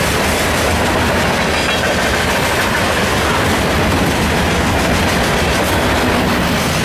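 Canadian Pacific freight train's enclosed autorack cars rolling past: loud, steady noise of steel wheels running on the rails.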